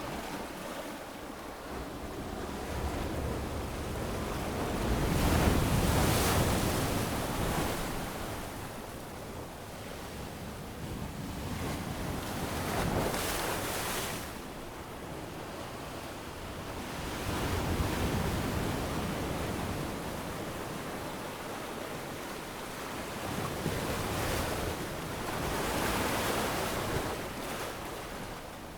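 Ocean waves breaking and washing up on a beach, the surf swelling and falling in slow surges every few seconds, the biggest about a fifth of the way in. Some wind noise runs under it.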